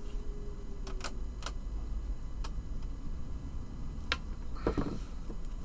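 About five sharp little clicks, spaced unevenly, of small model-kit parts being handled and fitted together on a helicopter main rotor hub, over a steady low hum. A brief murmured voice comes near the end.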